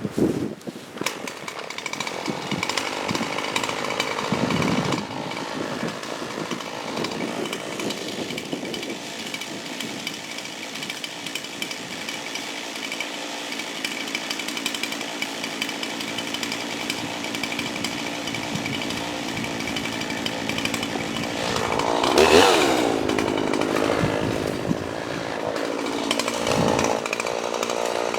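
Chainsaw running steadily while bucking a fallen log into firewood rounds. Its pitch dips and recovers about 22 seconds in.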